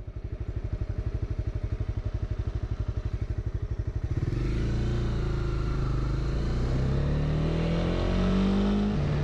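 Honda CB300R's single-cylinder engine running at low revs with a slow, even pulse, then pulling harder about four seconds in, its pitch climbing gradually with a step up near the end.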